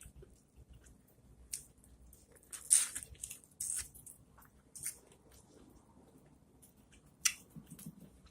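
Close-miked eating sounds of a person biting and chewing corn on the cob: wet, irregular mouth clicks and smacks, loudest about three seconds in and again about seven seconds in.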